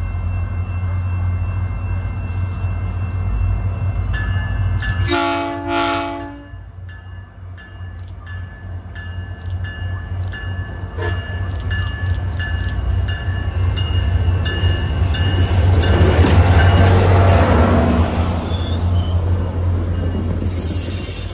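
SunRail commuter train approaching and rolling into the station. About five seconds in, its horn sounds two short chord blasts. The diesel locomotive's low rumble and the rolling of wheels on rail then build to a peak as the train comes alongside, with a thin, steady wheel squeal.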